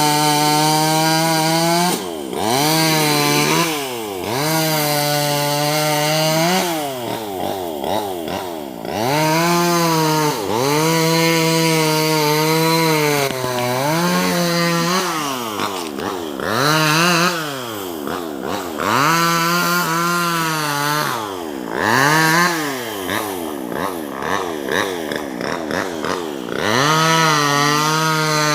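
Small two-stroke top-handle chainsaw cutting branches, its engine speed rising and falling over and over as it is throttled up, bogs in the wood and drops back, about a dozen times.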